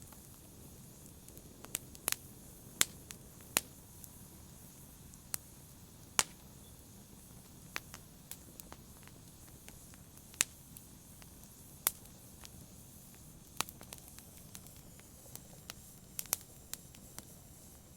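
Wood fire in a fireplace crackling: sharp pops come at irregular intervals, about one a second, over a faint steady hiss.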